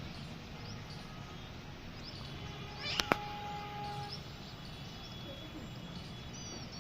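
A parrot calling from a treetop: a quick run of short, falling, screechy notes about three seconds in, with fainter chirps around it. Two sharp clicks just after the run, the loudest sound, are followed by a brief steady tone.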